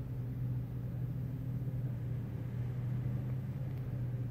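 A car's engine running steadily, heard from inside the cabin as a low, even hum.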